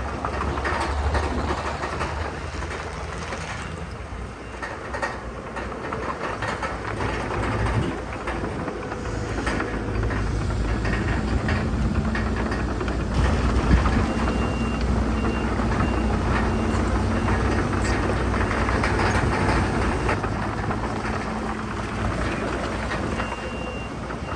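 Bulldozer's diesel engine running under load with its steel crawler tracks clanking and rattling. A reversing alarm beeps in short repeated beeps about halfway through and again near the end.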